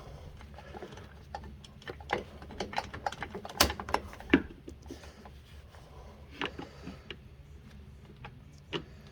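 Irregular metal clicks and knocks of tools and hardware being handled as a lever is worked against the gas shock, with two louder knocks about four seconds in.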